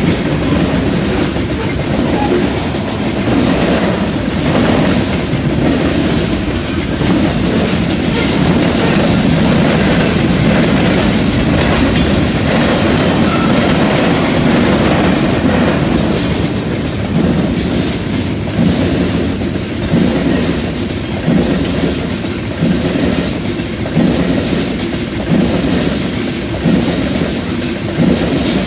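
Freight cars of a long CN train rolling past at close range: a steady rumble of steel wheels on rail. In the second half, the wheels clack sharply about once a second as they cross the junction switch.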